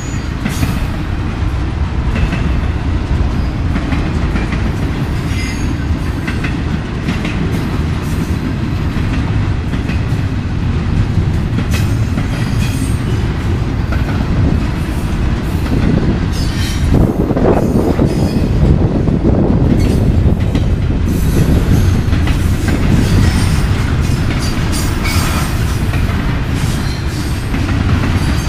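Intermodal freight train's well cars and trailer flatcars rolling past close by: a steady rumble of steel wheels on rail with scattered wheel clicks and brief high-pitched flange squeals. The rumble swells louder for a few seconds a little past the middle.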